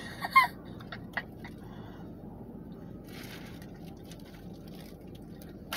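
Quiet eating sounds from someone chewing a glazed mini donut: small mouth clicks and a short rustle, over a steady low hum.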